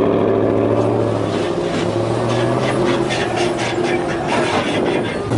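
Pickup truck engine running hard at high, steady revs with a rhythmic rasp over it: a truck straining to get a stuck truck free.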